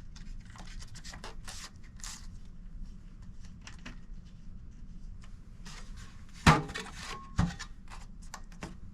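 Handling noise from fitting sluice mats and parts: light rubbing, scraping and small clicks, with two sharp knocks about two-thirds of the way through.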